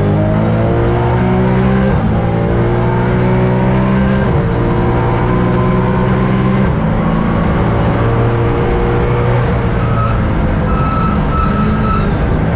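Race car engine pulling hard at full throttle, its pitch climbing and then dropping at each of four upshifts. A thin high whine comes in and out near the end.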